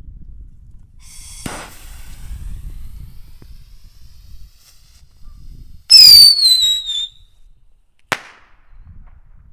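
Small firework: a pop with a short hiss, then a loud whistle that slides slightly down in pitch for about a second, then a single sharp bang about two seconds later, typical of a whistler with report. Wind rumbles on the microphone underneath.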